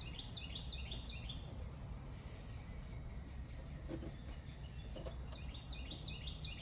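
A songbird singing two short phrases, each a quick run of four or five downward-sweeping chirps, one at the start and one near the end, over a steady low background hum.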